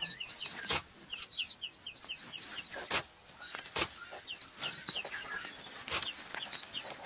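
Birds calling in repeated quick runs of short, high chirping notes, with several sharp clicks or snaps scattered among them.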